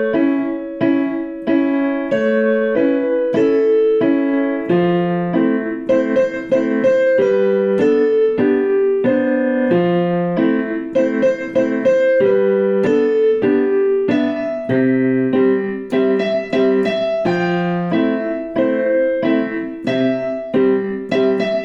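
Solo piano playing a pop song's melody over chords struck several times a second, without singing.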